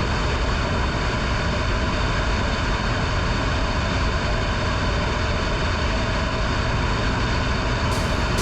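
Steady wind rush on the microphone with motorcycle engine and road noise, riding at speed.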